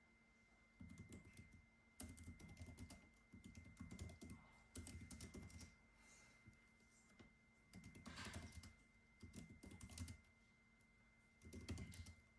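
Typing on a computer keyboard in runs of rapid keystrokes, with a short pause about six seconds in.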